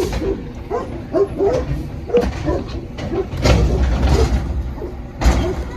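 Garbage truck running with a low engine rumble, under short, repeated high-pitched squeals. A loud clattering stretch comes about three and a half seconds in, and a sharp bang about five seconds in.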